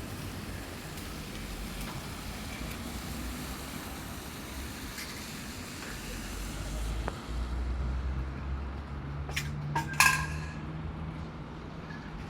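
Steady hiss of rain and traffic on a wet road. About seven seconds in, a vehicle's low engine rumble rises and settles into a steady hum, with two sharp knocks near ten seconds.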